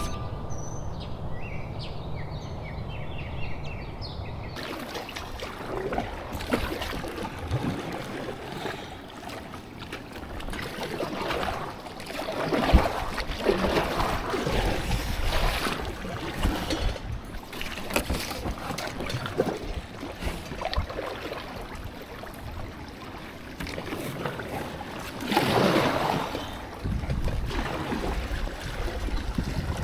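River water rushing and splashing around a kayak moving through current, with irregular louder surges of splashing.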